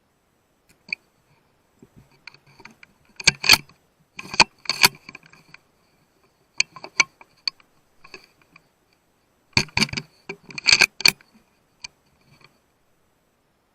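Bursts of sharp metallic clicks and rattles, bunched into two loud clusters with a few scattered clicks between, against silence.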